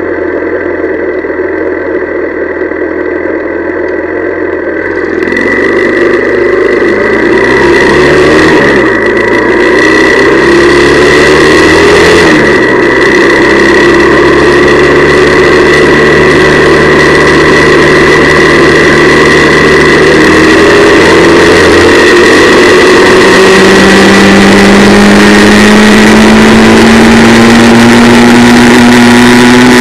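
Honda CL175's small four-stroke parallel-twin engine under way: it runs low for the first few seconds, then revs up and climbs in pitch with a dip as it changes gear, holds steady, and climbs again in the last several seconds. A rush of noise builds as it picks up speed, over a steady high whine.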